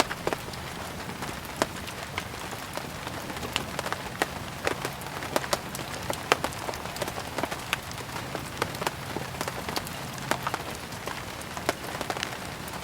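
Steady rain, an even hiss with many irregular sharp pops and crackles scattered through it, as from a wood fire burning alongside.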